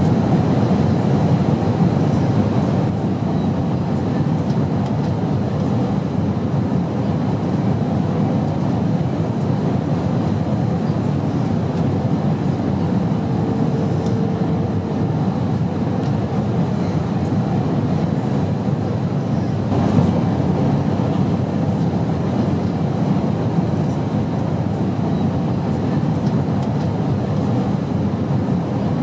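Airplane noise: a steady, unchanging low rumble.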